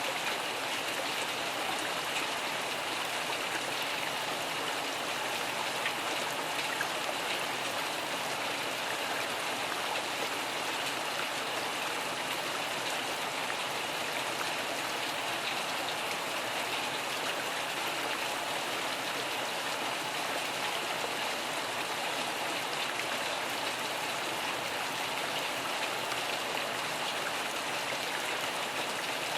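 Steady, heavy rain falling in a dense, even patter, with no thunder in this stretch.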